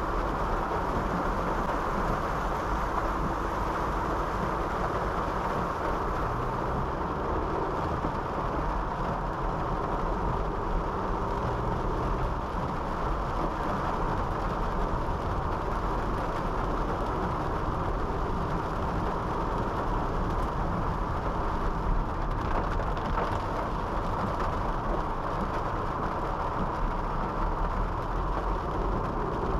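Honda City sedan driving on a wet road: steady tyre and road noise with a low engine hum underneath.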